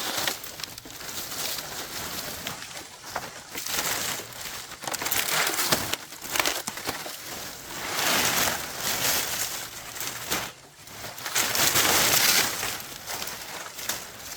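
Dry leaves rustling and crackling as they are handled and shifted in bunches, in several bursts a couple of seconds long.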